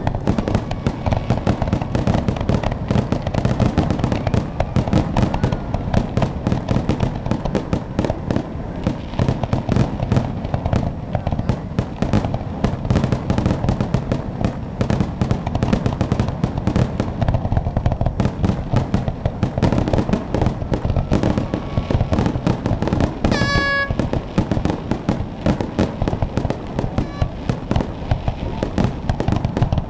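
Fireworks finale: a dense, continuous barrage of aerial shell bursts, one after another with no pause. A brief pitched tone sounds over the bursts about three-quarters of the way through.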